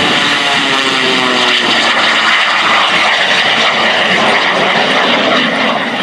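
Jet Waco, a modified Taperwing Waco biplane with a radial piston engine and propeller plus an underslung turbojet, passing by at full power: a loud, steady roar of jet exhaust and propeller, with the engine and propeller tone falling in pitch over the first couple of seconds as it goes past.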